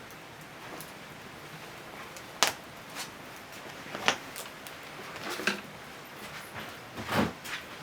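Firewood burning in a traditional Korean agungi furnace: a steady hiss with irregular sharp cracks and pops, a few of them much louder than the rest.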